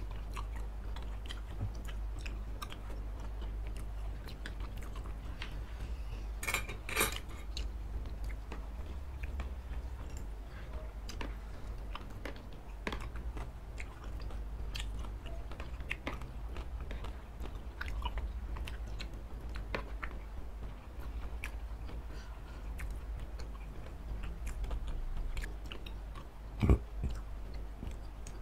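Close-miked eating sounds of two people chewing saucy instant fried noodles and chicken and beef satay: wet chewing and lip smacks with many small clicks. Two louder bursts come about six and seven seconds in, and a sharp knock comes near the end.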